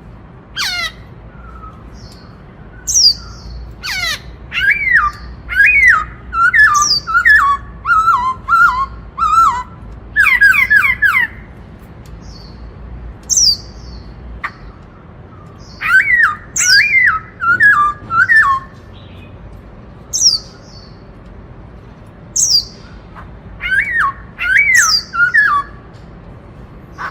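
Black-throated laughingthrush singing loudly in its 'bắt cô trói cột' song style: rapid runs of down-slurred whistled notes mixed with sharp high notes. The song comes in three long phrases separated by pauses of a few seconds.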